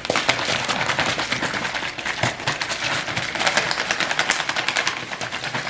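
Pre-workout powder being mixed into water in a drink bottle: a fast, continuous clatter of clicks.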